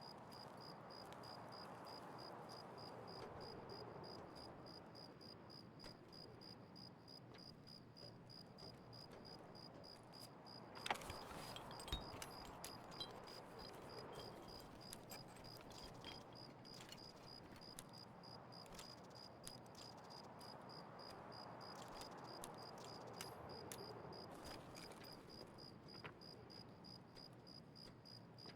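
Near silence: faint outdoor background with a steady, evenly pulsed high-pitched chirping and slow faint swells of noise, with a few soft clicks about eleven seconds in.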